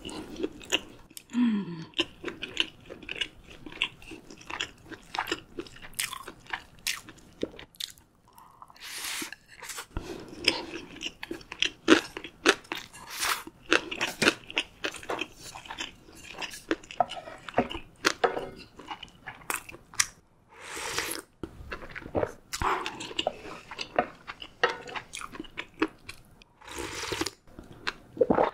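Close-miked eating sounds from a person chewing food: wet chewing and crunching with many small mouth clicks, and several longer, louder noisy sounds of about a second each.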